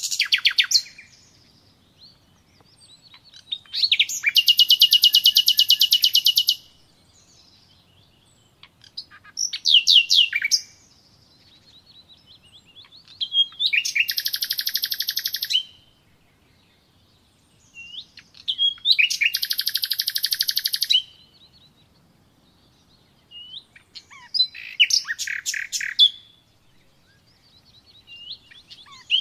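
A songbird singing, repeating phrases of rapid high trilled notes about every four to five seconds, with short quiet pauses between phrases.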